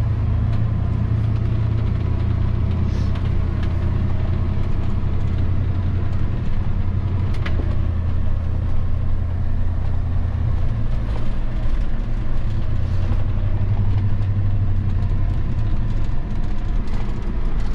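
1990 Ford F-150's 5.0-litre V8 running as the truck is driven, heard from inside the cab: a steady low drone with road noise, easing a little about halfway through.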